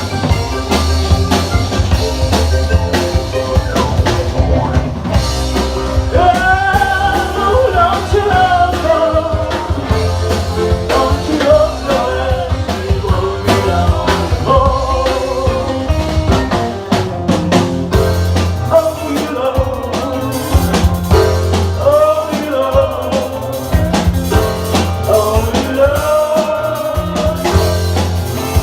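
Live rock band playing in a club: drum kit, bass guitar and guitars, with a sung vocal line coming in about six seconds in.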